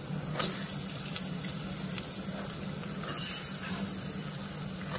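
Hot oil with fried onions sizzling in an aluminium pot as raw chicken pieces are added. The sizzle surges louder about half a second in and again about three seconds in.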